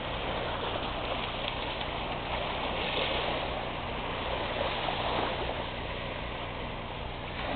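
Sea waves washing on the shore, a steady rush with no breaks.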